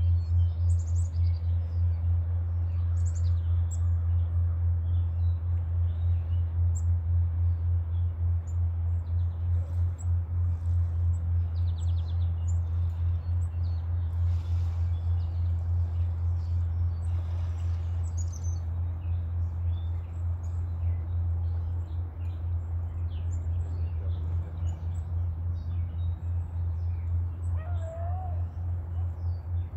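Small birds chirping on and off over a steady, low, pulsing hum, with a short wavering call near the end.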